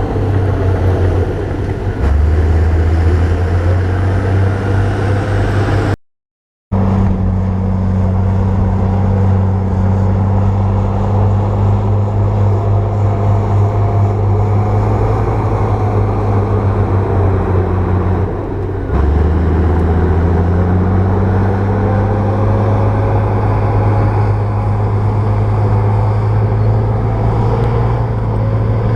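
Bulldozer diesel engine running steadily with a deep, constant hum. Its pitch and loudness step up about two seconds in and again near nineteen seconds, and the sound drops out completely for under a second about six seconds in.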